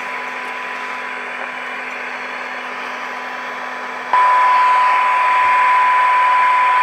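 Transistor radio's speaker putting out steady hiss with a thin 1 kHz test tone, the modulation of an AM test signal fed in during alignment. About four seconds in, the tone and hiss jump suddenly much louder, as the set comes onto the signal.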